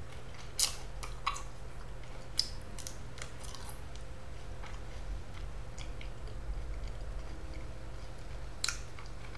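A person chewing a mouthful of oven-baked sweet potato wedge: scattered soft mouth clicks and smacks over a steady low hum.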